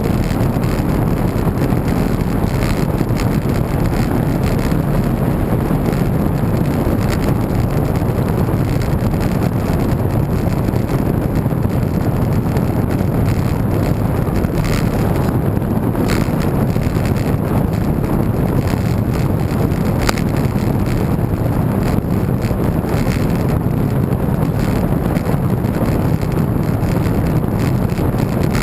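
Steady wind noise rumbling over the microphone of a camera carried on a moving road bike, with a few faint ticks partway through.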